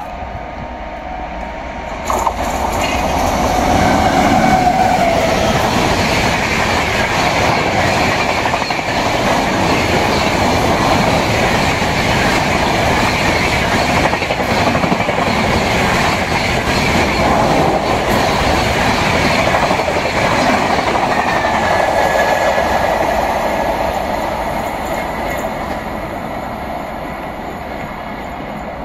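Express train with an electric locomotive passing at speed: steady wheel clatter over the rails and the rushing noise of the coaches. It swells suddenly about two seconds in and fades as the train moves away near the end.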